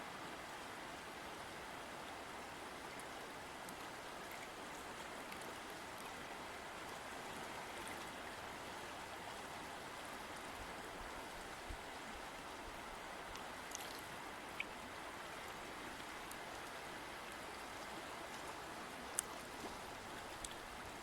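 River water flowing over rocks, a steady rushing babble with a few faint splashes and ticks.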